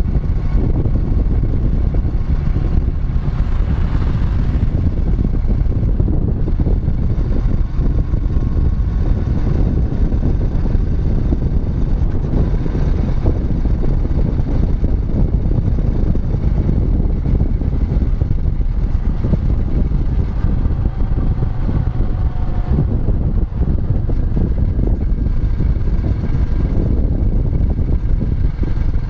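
Royal Enfield Meteor 350's single-cylinder engine running steadily under way.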